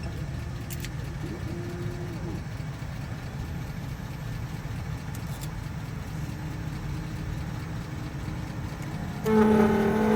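Engine idling with a steady low rumble. About nine seconds in, an electric motor starts abruptly with a steady whine, typical of a key-cutting machine starting up to cut a key.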